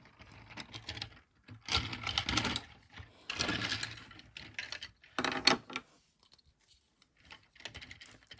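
Hard plastic toy parts clicking and rattling in the hands as small guns are plugged onto an action figure, in three short spells of rapid clatter about two, three and a half, and five seconds in.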